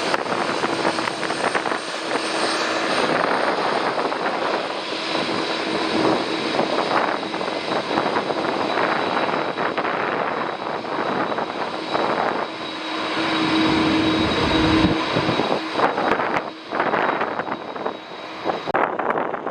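Jet airliner's engines running with a steady whine over a loud rush, as the aircraft comes in to land. Gusty wind buffets the microphone, with a strong gust about three-quarters of the way through. The whine drops away near the end.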